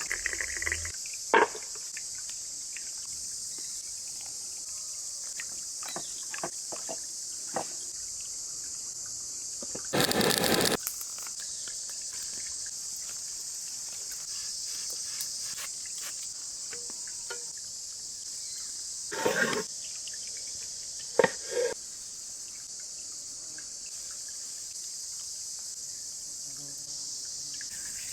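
Steady high-pitched chorus of insects, with scattered short knocks and clatters. A louder noisy burst lasts about a second around ten seconds in.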